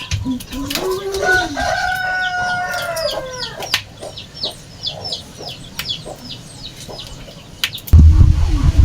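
A rooster crowing once: a long call of about three seconds that rises and then falls away. Under and after it comes a run of short, high chirps, about three a second, and near the end a loud low rumble starts.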